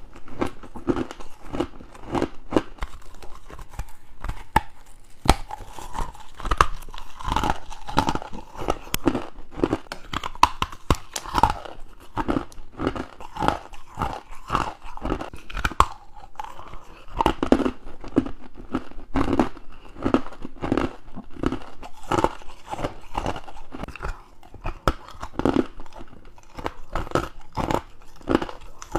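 Close-up crunching of freezer frost and crushed ice being bitten and chewed, in a rapid run of crisp crunches, several a second and without pause.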